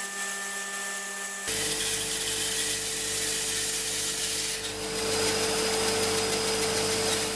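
Startrite 401E bandsaw running and cutting through a glued-up hardwood bowl blank, with a steady hum under the noise of the cut. The sound changes abruptly about a second and a half in, from the machine's hum alone to full sawing.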